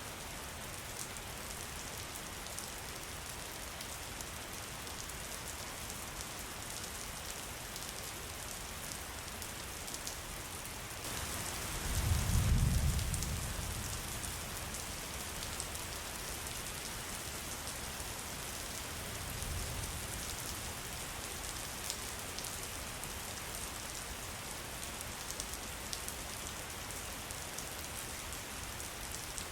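Steady rain falling, with fine drop patter, and a low rumble that swells about twelve seconds in and fades over a couple of seconds.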